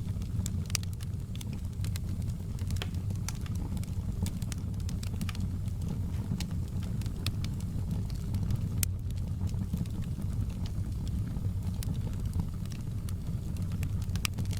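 Campfire crackling: many sharp, irregular pops and snaps, several a second, over a steady low rumble.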